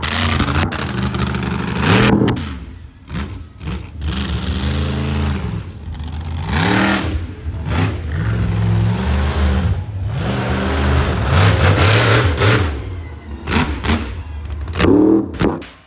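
Monster truck engine revving again and again, its pitch rising and falling in swells every two to three seconds, with occasional sharp cracks.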